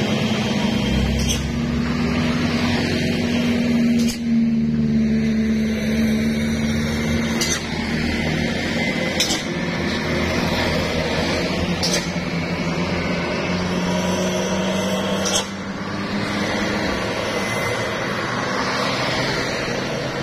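Heavy truck engine running steadily under load on a steep descent. Sharp clicks or knocks come every few seconds, and the sound drops a little in level about three-quarters of the way through.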